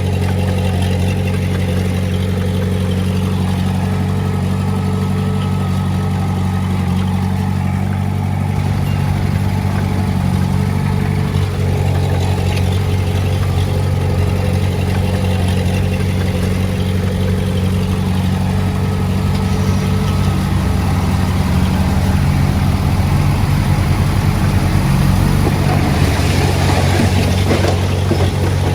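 Diesel engine of a Komatsu D20A bulldozer running steadily under work, getting louder and rougher over the last several seconds.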